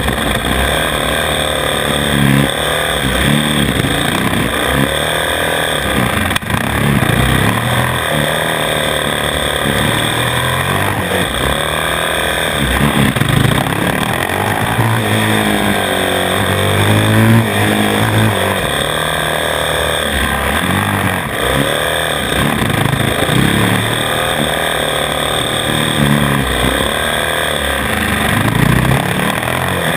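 450 cc single-cylinder four-stroke supermoto engine heard from on board, revving up and down through the corners of a lap as the throttle is opened and closed.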